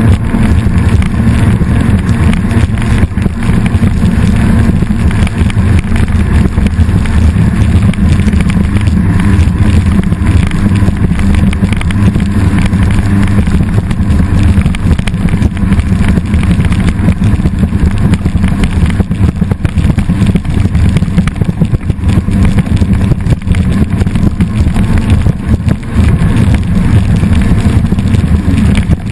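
Jet ski engine running loud and steady at speed, with rushing noise over it.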